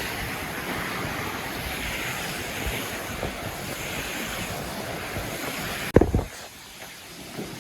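Steady rushing noise of the outdoors, about six seconds long, broken by a single loud thump, after which the background drops abruptly to a quieter level.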